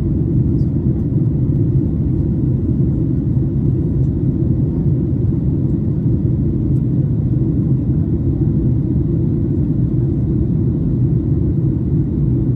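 Steady low rumble inside the passenger cabin of a Boeing 737 MAX 8 in flight: engine and airflow noise at an even level.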